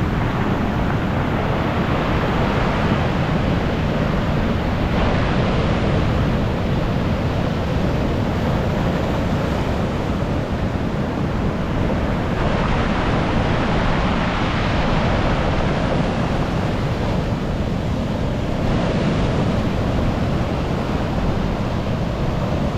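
Stormy sea surf breaking and washing up the beach in repeated surges, with wind buffeting the microphone and a constant low rumble.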